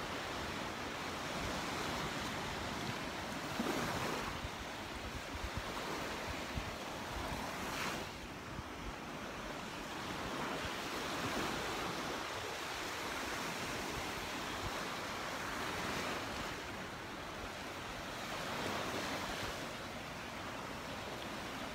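Gulf surf washing onto the beach, swelling and easing every few seconds as waves break, with some wind buffeting the microphone.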